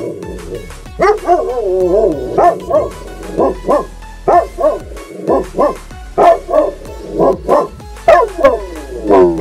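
A dog giving one drawn-out, wavering whine about a second in, then barking in short, loud, pitched barks, often in pairs, about two a second.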